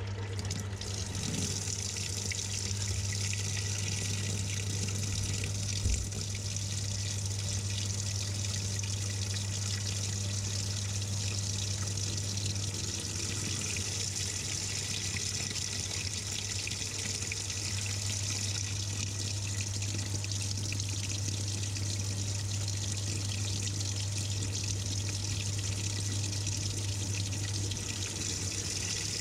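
Water pouring steadily into the tub of a Samsung 6.5 kg top-load washing machine as it fills, heard from inside the drum, with a steady low hum under it and a single knock about six seconds in.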